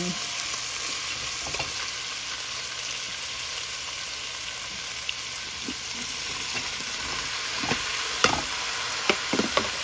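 Salmon pieces and onions sizzling in oil in an aluminium pot: a steady frying hiss. Near the end a few short knocks and clatters come as zucchini slices are tipped into the pot.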